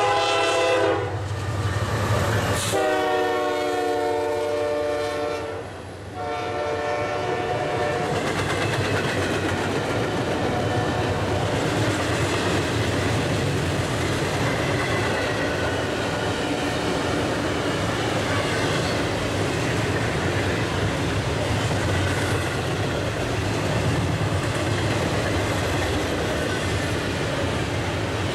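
Locomotive air horn sounding three blasts: a short one at the start, a longer one of about three seconds, and one of about two seconds. The horn is followed by the steady rumble and clatter of a train's cars rolling past.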